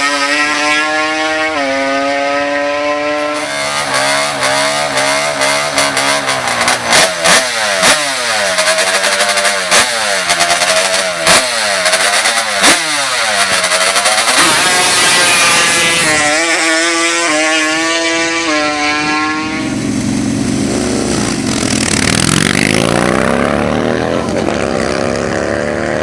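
Racing ATV engine revving hard, its pitch repeatedly rising and falling in quick blips with sharp cracks through the middle, then sweeping up and down near the end.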